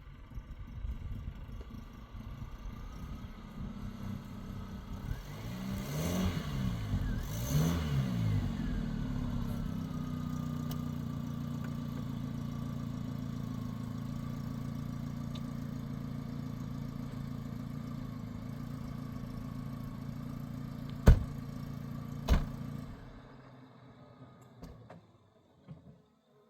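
A motor vehicle's engine running with a steady low hum, its pitch swinging up and down for a couple of seconds as it revs. Near the end there are two sharp knocks, and then the engine sound dies away.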